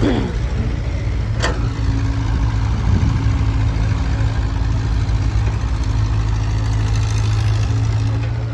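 Heavy diesel engine running steadily at a low, even speed, with a sharp metallic knock about a second and a half in.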